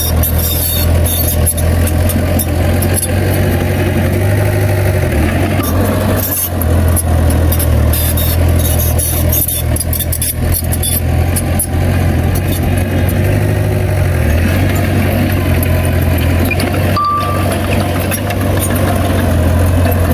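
A heavy diesel engine of earthmoving machinery running steadily with a deep drone, over scattered clicks and rattles.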